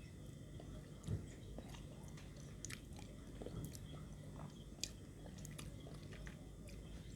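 Faint chewing and biting of pounded santol salad, with scattered small mouth and utensil clicks and one louder knock about a second in.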